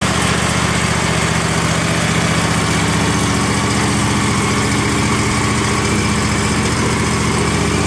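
Tractor engine running steadily with an even, fast low pulse.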